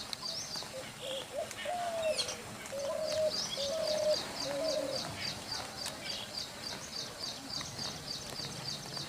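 Birds calling: a rapid, even series of high chirps at about four a second throughout, with a run of lower, held calls in the first half.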